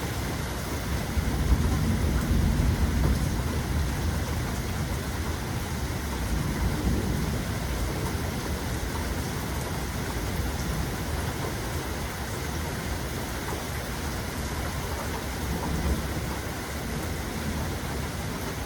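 Steady rain with a low roll of thunder in the first few seconds that settles back under the rain.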